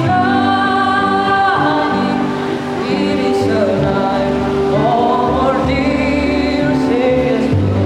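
Children's choir singing a Christmas carol in held, sustained notes, with a steady low accompaniment underneath.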